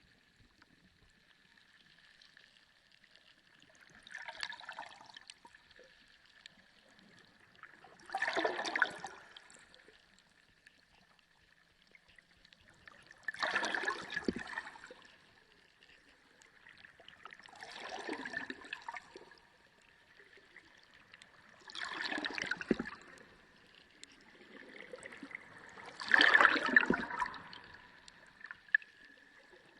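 Underwater sea ambience: a wash of water sound swells and fades six times, about every four seconds, over a faint steady high tone.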